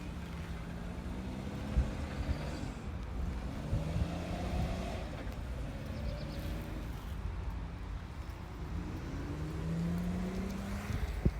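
A road vehicle's engine running over a steady low road rumble, its pitch rising and falling several times, with a sharp knock near the end.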